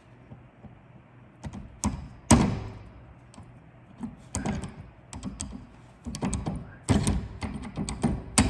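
Clunks and knocks of tools and suspension parts being handled while a front strut is freed for removal. A single loud knock comes about two seconds in, then a busy run of clicks and knocks from about four seconds on.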